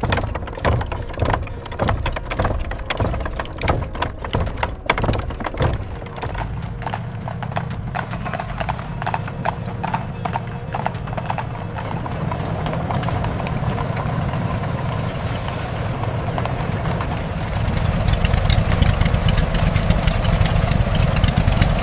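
Horse hooves clip-clopping in quick, rapid strokes. Over the second half a steady rumbling noise builds up and grows louder toward the end.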